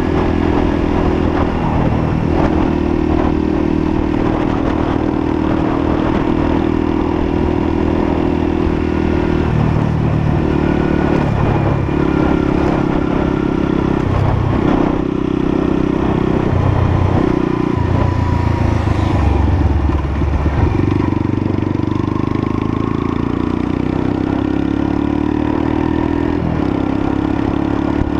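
Lexmoto LSM 125's 125cc engine running as the motorcycle is ridden, its pitch stepping up and down through the middle with changes of throttle, then settling to a steady note.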